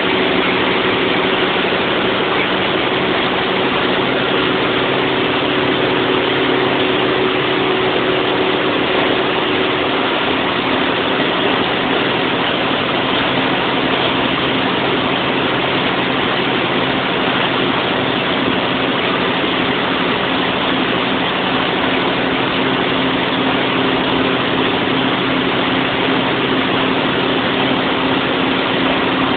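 Engine of a large 1000 kW generator set running steadily, with a change in its hum about ten seconds in.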